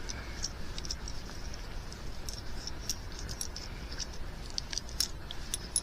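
Irregular small metallic clicks and jingles of treble hooks and split rings being worked off an old plastic fishing lure.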